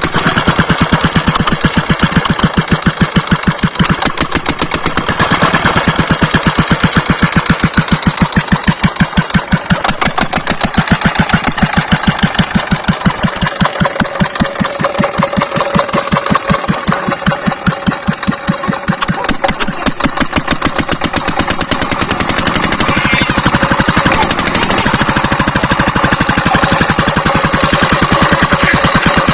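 Ruston 20 HP diesel oil engine running steadily after being started, with an even, regular beat of firing strokes.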